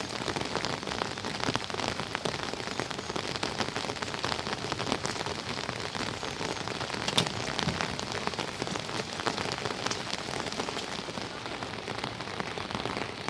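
Steady rain falling, a dense patter of individual drops striking close by, with one sharper drop hit about seven seconds in.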